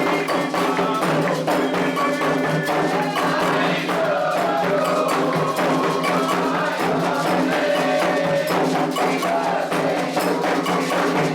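Candomblé ceremonial music: fast, dense hand percussion with sharp struck accents, and voices singing over it.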